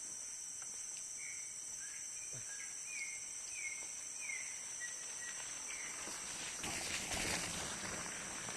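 Rainforest insects droning steadily at a high pitch, with a bird giving a run of short, falling whistled notes through the first half. Near the end there is a brief rustling noise.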